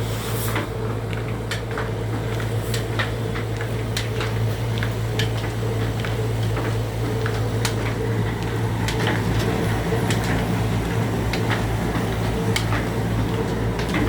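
Black 22 hp diesel engine running slowly and steadily, a constant hum with a sharp regular knock a little under twice a second.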